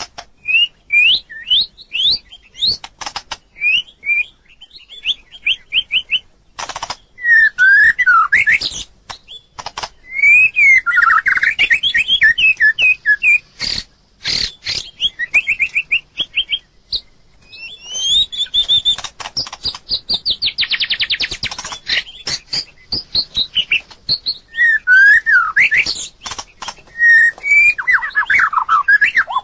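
White-rumped shama singing: a varied, continuous run of whistled phrases, rapid trills and sweeping notes, mixed with many sharp clicks.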